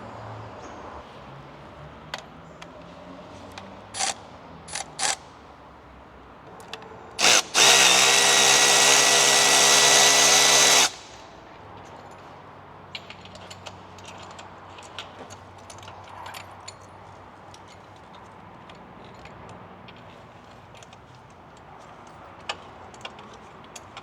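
A handheld power tool gives a short blip, then runs steadily for about three seconds with a motor whine. Scattered sharp metallic clicks and taps of tool work come before and after it.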